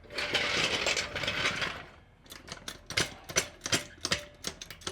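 Hand tools working on a shock absorber mount of a Volkswagen chassis: about two seconds of rough, rattling mechanical noise, then a string of irregular metal clicks and clinks.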